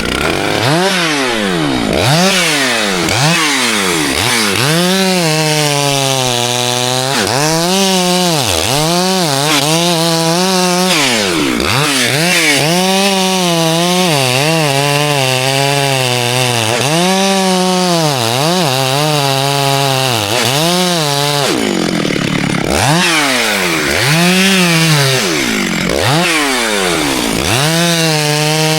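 Two-stroke chainsaw cutting birch wood, its engine revs rising and falling over and over, roughly once a second, with a short spell at lower revs a little past halfway.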